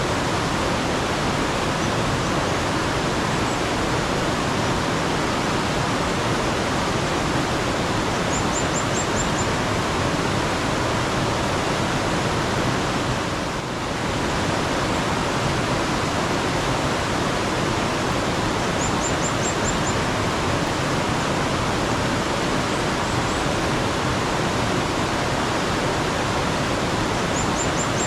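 Steady rushing of mountain stream water, with a small bird giving a short run of rapid high-pitched chirps three times.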